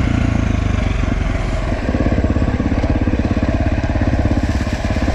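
Dirt bike engine running at low, steady revs, its firing pulses coming in a fast, even chug.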